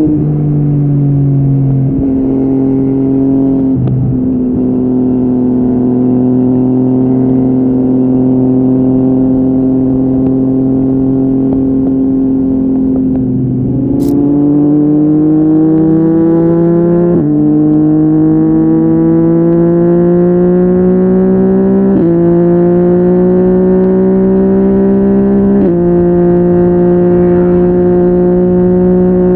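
Yamaha MT-09 three-cylinder engine through an Akrapovic exhaust, heard on the move. The engine note dips twice near the start and holds steady for a while. From about halfway it climbs as the bike accelerates, with three sudden steps in the note a few seconds apart.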